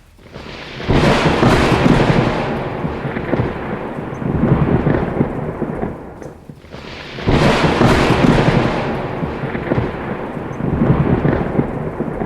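Two long peals of thunder, the first about a second in and the second about seven seconds in, each cracking in suddenly and then rumbling on and fading over several seconds, over the hiss of rain.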